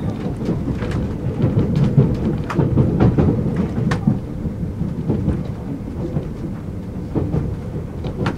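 Super Hakucho limited express train running along the track, heard inside the carriage: a steady low rumble of wheels on rails with scattered sharp clicks and rattles.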